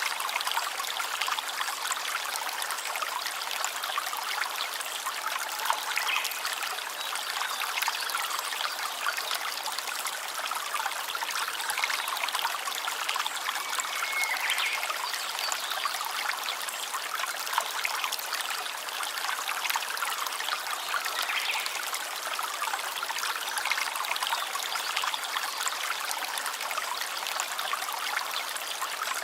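A small stream trickling and burbling steadily.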